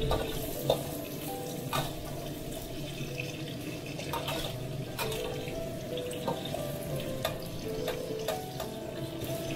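Green beans frying in hot oil in a wok: a steady sizzle, with a metal ladle scraping and knocking against the wok now and then.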